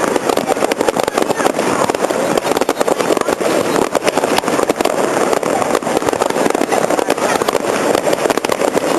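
Fireworks display with a continuous dense crackle and popping of bursts over a steady background din.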